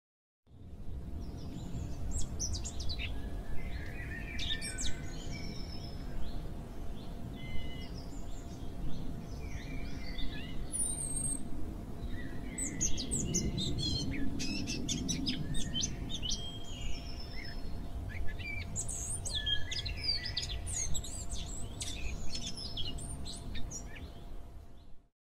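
Several birds chirping and trilling over a steady low background rumble and a faint constant hum. It starts about half a second in and cuts off abruptly near the end.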